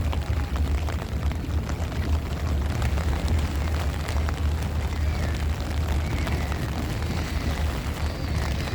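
Strong wind buffeting the microphone in gusts, a deep flickering rumble, with rain and scattered ticks of raindrops over it.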